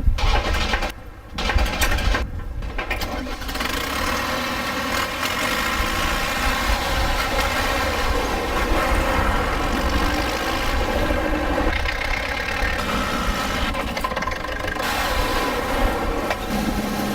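Tractor engine running, with a few uneven surges in the first couple of seconds before it settles into a steady run.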